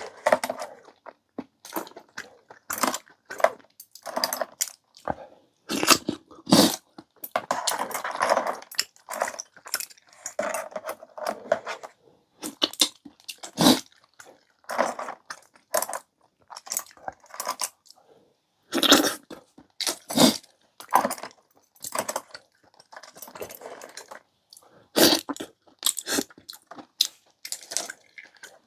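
Close-miked eating sounds: chewing and crunching, with many short, sharp clicks and clacks of tableware scattered through.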